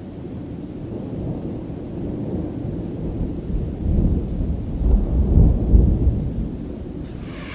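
Thunder sound effect: a long low rumble that swells to its loudest in the middle and dies away near the end.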